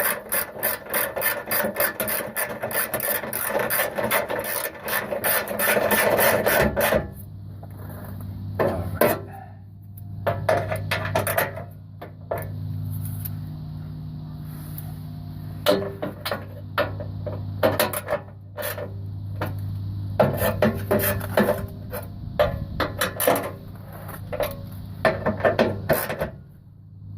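Ratchet wrench clicking rapidly for about seven seconds as the exhaust heat shield is bolted back on. After that comes a steady low hum with scattered metallic clinks and taps.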